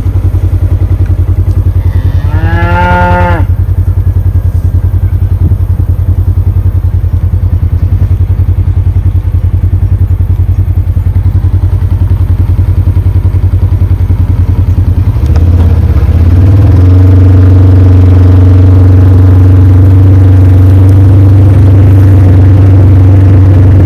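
A cow moos once, about two seconds in, over the loud, chugging run of a nearby vehicle engine. About fifteen seconds in, the engine shifts to a higher, steadier note.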